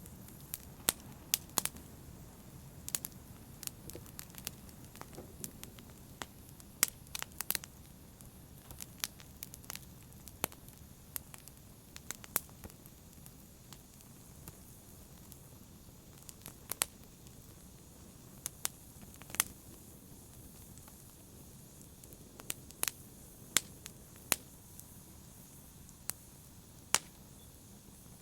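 Wood fire burning in a fireplace: irregular sharp crackles and pops over a low steady rumble of flames.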